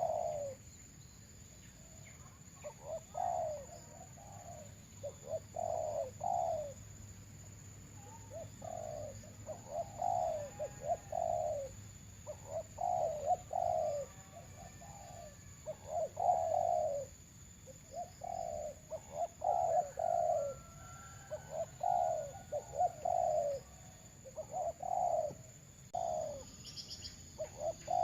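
Doves cooing: short phrases of low, falling coos repeated every one to two seconds, decoy doves calling back and forth with wild ones.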